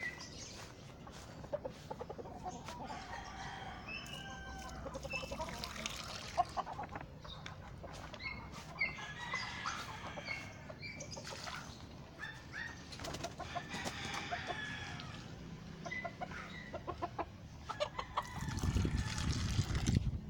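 Game fowl chickens clucking and calling over one another, with scattered sharp clicks. A low rumbling noise comes in for a couple of seconds near the end.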